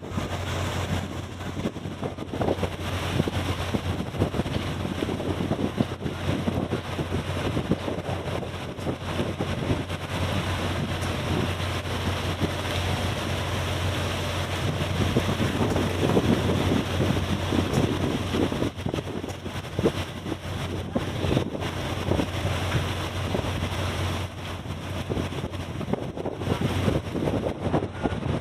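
Wind buffeting the microphone over a steady low hum from a boat's engine, with no break throughout.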